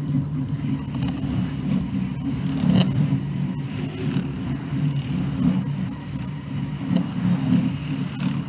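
Freight train cars rolling past: double-stack container well cars, then autorack cars, with a steady rumble of steel wheels on the rails and a few sharp clicks.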